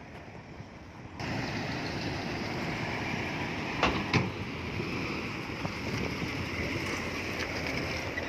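Heavy earth-moving machinery running, which gets suddenly louder about a second in, with two sharp knocks close together about four seconds in.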